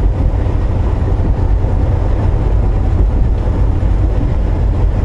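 Volvo VNL860 semi-truck heard from inside the cab while driving down the highway: a steady, deep drone of engine and road noise.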